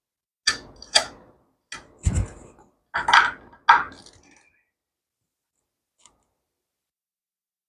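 Metal parts clinking and knocking as a minibike's rear sprocket and its bolts are handled, six sharp clinks over about three seconds, each ringing briefly, then quiet apart from one faint tick.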